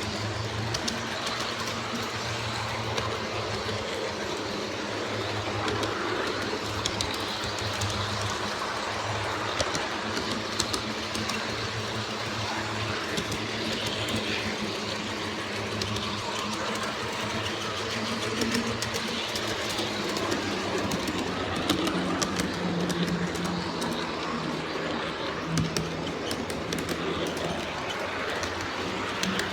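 G-scale model diesel locomotives running along the track: a steady low hum with scattered sharp clicks.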